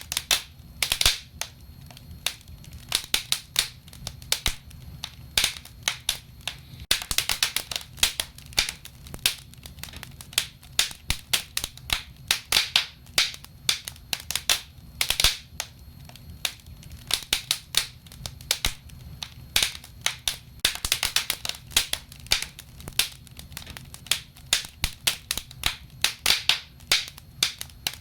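Wood fire burning in a fireplace: irregular sharp crackles and pops, often several a second in clusters, over a low steady rumble of the flames.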